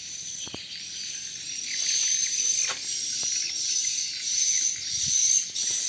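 Steady high-pitched chirping and trilling of insects and birds, with a few faint knocks.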